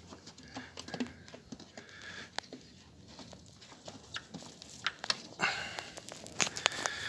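Scattered light clicks, taps and rustles of hands fitting a hose into a top-loading washing machine during reassembly, busier in the last couple of seconds.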